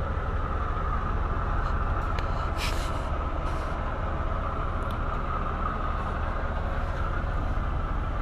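Steady low rumble of idling diesel truck engines, with a short burst of hiss about two and a half seconds in and another a second later.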